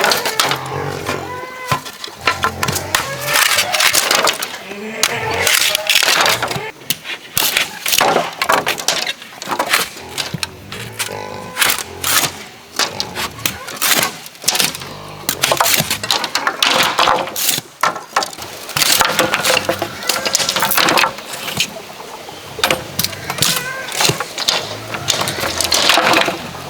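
Bamboo being cut and split by hand: a long run of sharp, irregular cracks and knocks.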